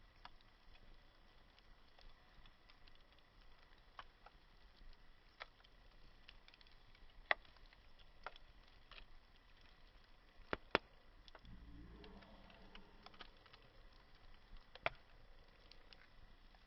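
Campfire crackling: burning wood giving off sparse, sharp single pops over a faint steady hiss, with a few louder snaps scattered through.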